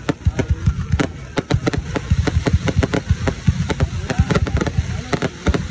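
Aerial fireworks bursting in a rapid, irregular barrage of bangs, several a second, with voices faintly in between.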